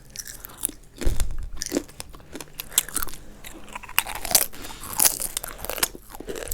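Crunchy fried snacks (crisps) being bitten and chewed, a rapid, irregular run of crisp crunches.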